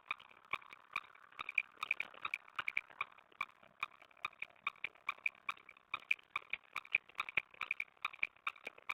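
Rapid, irregular clicking and scratching, several clicks a second, from owls moving and handling prey inside a nest box, picked up by the box's microphone.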